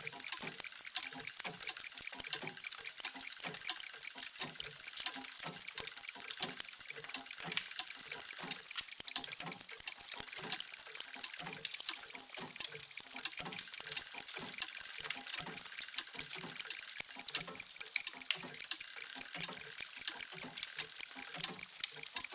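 Many mechanical clocks ticking at once, out of step, making a dense, steady stream of sharp high ticks with softer low knocks among them.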